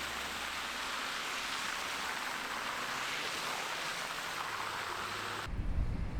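Steady outdoor hiss that cuts off abruptly about five and a half seconds in, giving way to an uneven low rumble like wind buffeting the microphone.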